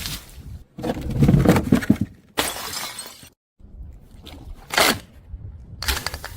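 Glass bottles smashing in a series of separate crashes, the loudest about a second in, more at about two and a half and five seconds, and another near the end, with an abrupt silent break between them.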